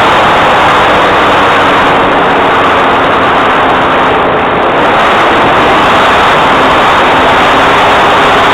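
Light aircraft's engine and propeller running steadily in flight, with rushing wind, heard loud from on board.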